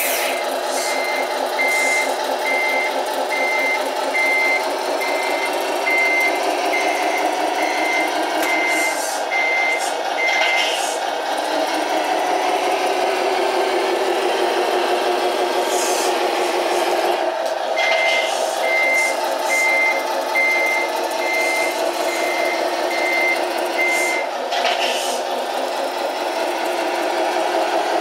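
RC Scania truck's sound module playing a truck engine with its reversing beeper, the beeps coming steadily for about the first ten seconds and again from about 18 to 24 seconds. The engine note shifts in pitch a few times, with short hisses in between.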